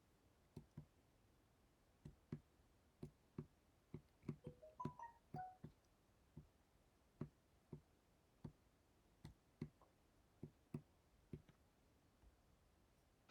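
Irregular knocking in a quiet small room: about two dozen sharp knocks, clustered most tightly around the middle and spacing out before stopping near the end. In the thickest cluster there are a few short squeaky chirps at different pitches.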